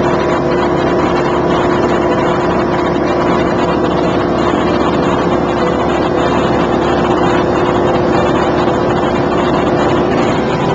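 Rans light airplane's engine and propeller running steadily at constant pitch, a loud even drone.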